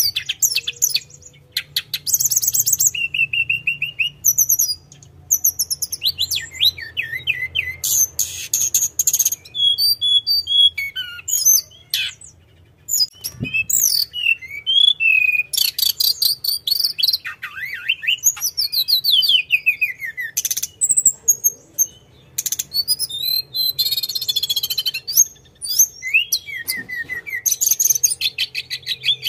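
A tledekan gunung songbird singing continuously in quick, varied high-pitched phrases of whistles, rapid trills and falling glides, with only short pauses between them. A faint steady low hum runs underneath.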